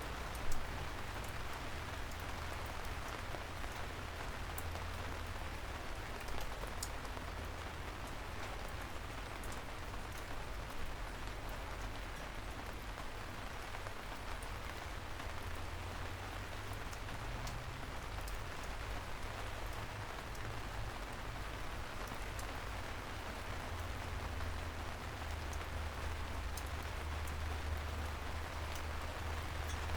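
Steady gentle rain falling on city streets, an even hiss with scattered drops ticking, over a low steady hum. A single sharp tick stands out about half a second in.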